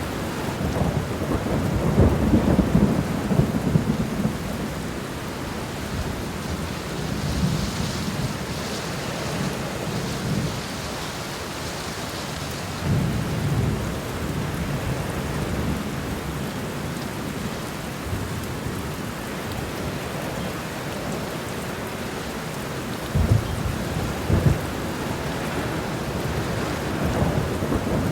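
Steady rain falling, with low rumbles that swell and fade several times, the strongest about two seconds in and near the end.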